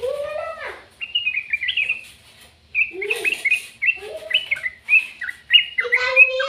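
Bird chirping: rapid runs of short, high chirps, with a lower rising call at the start and a longer lower call near the end.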